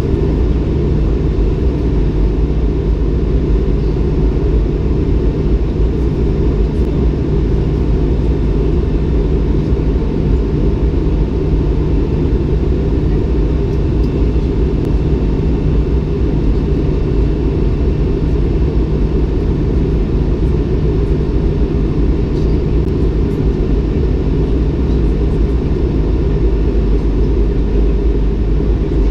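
Steady cabin noise inside a Bombardier CS300 airliner in flight: a deep, unchanging rumble of engines and airflow with a faint steady whine above it.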